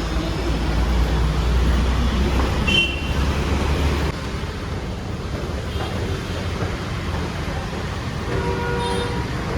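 Street traffic: a vehicle engine runs close by with a heavy rumble for about the first four seconds, then lighter traffic noise, and a vehicle horn toots briefly near the end.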